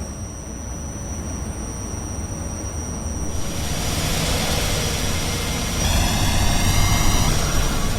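R68A subway train at a terminal platform: a steady low rumble, then a loud rushing hiss starts about three seconds in and lasts to the end. A wavering, squealing whine rides on top for about a second near the end.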